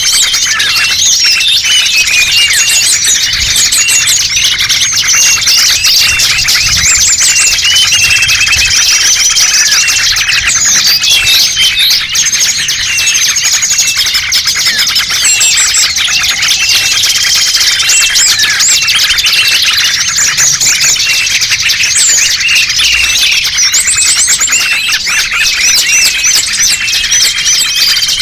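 Dense, loud chorus of many small songbirds chirping and twittering over one another without a break, with an occasional short steady whistle: a bird-lure (pikat) recording for small birds.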